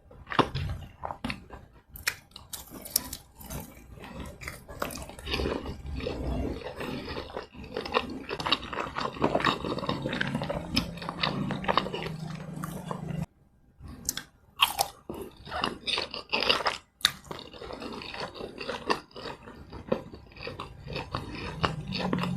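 Close-miked chewing and crunching of fried snacks, with a dense run of crackly bites and mouth sounds. There is a brief pause a little past halfway.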